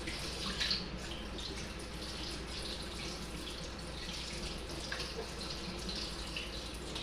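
Water running from a tap and splashing steadily as a Kona crab is rinsed and its guts cleaned out.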